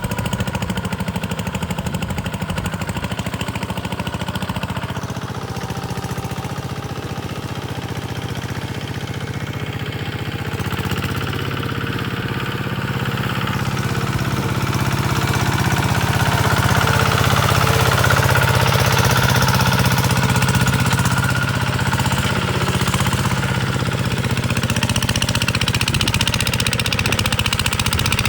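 Diesel engine running steadily with a fast knocking beat, getting louder about halfway through.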